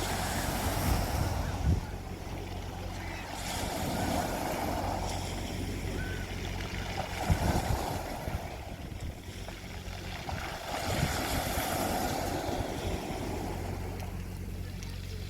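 Sea waves breaking and washing on a beach, swelling and fading in several surges a few seconds apart, with a steady low hum underneath.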